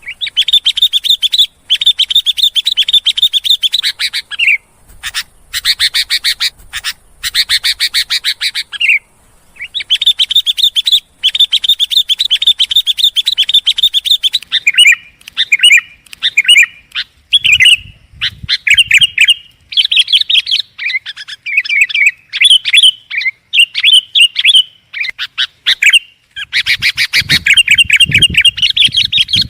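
Sooty-headed bulbul (kutilang) calling loudly: long runs of rapid chattering notes, breaking about halfway into shorter, varied phrases. A low rumble sits under the calls briefly in the middle and again near the end.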